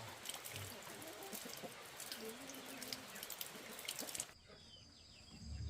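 Running water splashing and dripping, full of small irregular drops, cutting off suddenly about four seconds in. After the cut, quieter background with short bird chirps and a low thump near the end.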